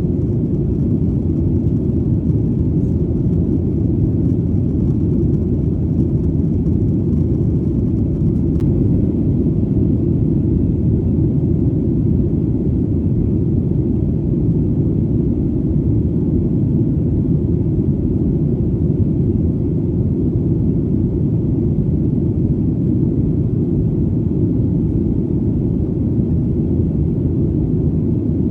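Airplane engine drone in flight: a steady, deep rumble that holds the same level and character without change.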